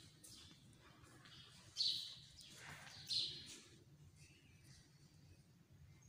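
Birds chirping, with two louder calls about two and three seconds in, over faint outdoor background noise.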